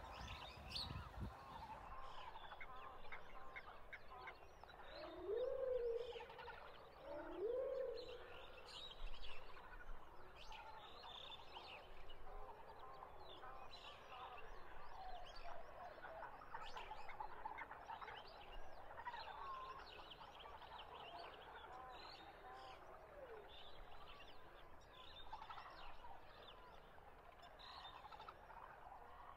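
Garden birds chirping throughout, with two louder rising calls about five and seven seconds in.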